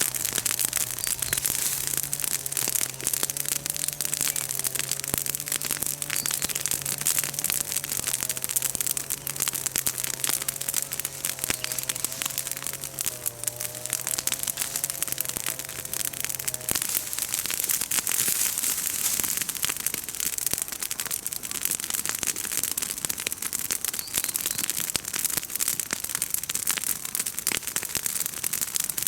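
Bonfire of freshly felled green chestnut leaves and twigs crackling and popping hard, a dense run of sharp snaps over a steady hiss. A faint wavering hum underneath cuts off abruptly a little over halfway through.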